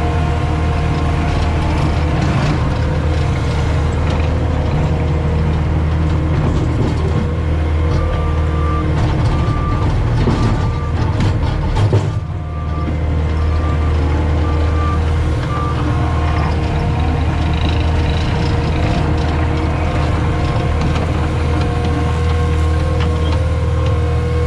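Cat 259D skid steer's diesel engine running steadily under load, with its reversing alarm beeping a little more than once a second from about a third of the way in until about two-thirds through. A single clunk, such as the bucket or tracks knocking, comes about halfway.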